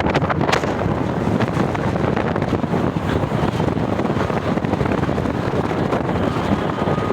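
Wind buffeting the microphone: a steady, heavy rushing noise with no clear engine note.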